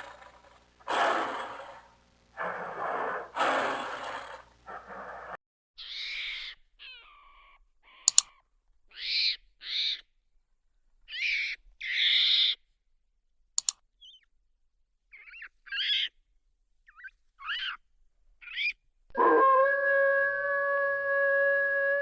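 A run of different animal calls. It opens with a few rough, loud calls, then a series of short, high, bird-like calls with a few sharp clicks, and near the end a long, steady, howl-like call starts.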